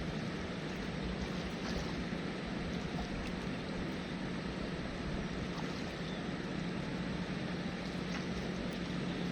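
Steady rush of flowing river water, with a steady low hum under it.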